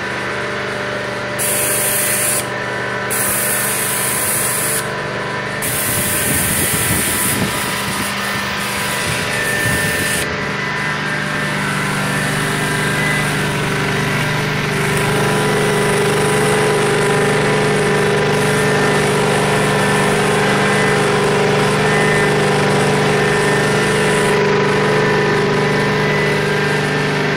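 Prochem Legend SE truck-mount carpet cleaner running steadily on its Kohler 22 hp engine, with a loud hiss that cuts in and out several times in the first ten seconds before the running settles to a steady drone.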